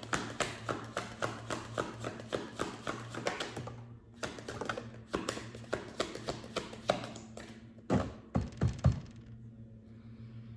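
Tarot cards being shuffled by hand, the cards tapping in a quick even rhythm of about four a second, with a brief pause partway through. A few heavier thumps follow near the end as the deck is knocked or cards are set down on the table.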